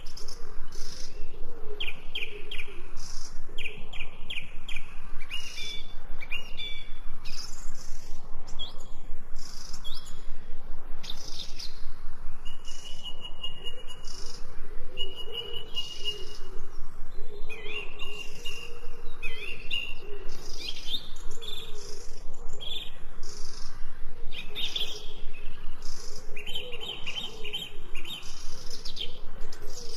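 Several songbirds chirping and singing together: a busy, continuous mix of short high chirps and rapid repeated trills, with a lower wavering call underneath.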